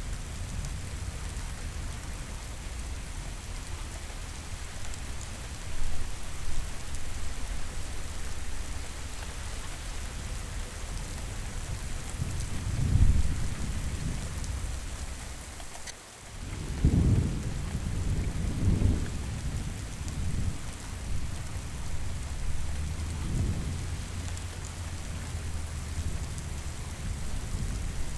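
Thunderstorm: steady rain with thunder rumbling low several times, the loudest rolls just past halfway.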